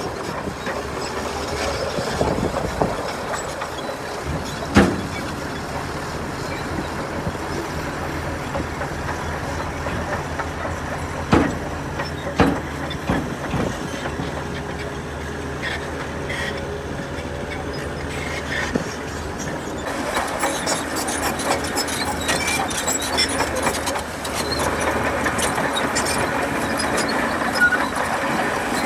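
Crawler bulldozer working: its diesel engine runs steadily under the clank and squeak of the steel tracks, with a few sharp metal clanks. The rattling gets busier about two-thirds of the way through.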